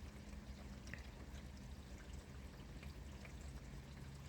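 Steady rain falling, with scattered drops ticking on surfaces and water pouring and trickling off a roof into a gutter and drainpipe, under a low hum.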